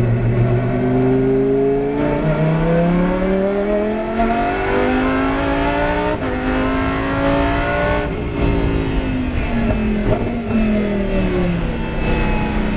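Lamborghini Huracán GT race car's 5.2-litre V10 at high revs, its pitch climbing under hard acceleration with a gear change about six seconds in. The revs fall for about three seconds as the car slows, then climb again near the end.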